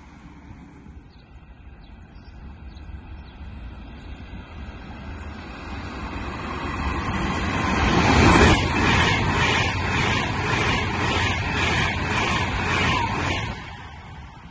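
A Frecciargento ETR485 Pendolino high-speed train runs through the station without stopping. It rises out of a distant rush to its loudest as the nose passes, about eight seconds in. Its wheels then beat rhythmically about twice a second as the cars go by, and the sound drops away quickly as the last car clears near the end.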